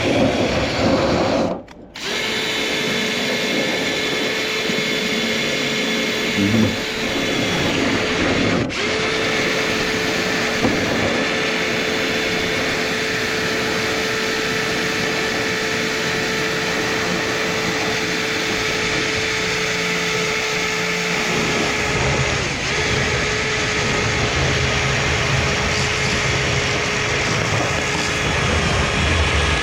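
Power drill running steadily at a constant pitch, spinning a rotary cleaning brush through a clogged dryer vent duct. It stops briefly twice, about two seconds in and about nine seconds in.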